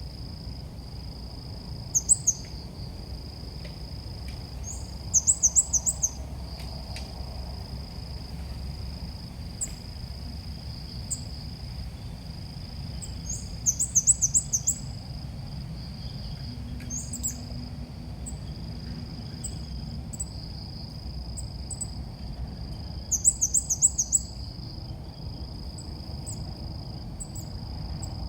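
Ốc mít bird call: short, rapid strings of high chirps repeated four times, over a steady high thin whine and a low background rumble.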